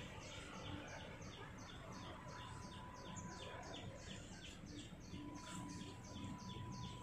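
A bird calling a fast, even series of short, high chirps, about four a second, over faint outdoor background noise. A faint steady tone joins in about two seconds in.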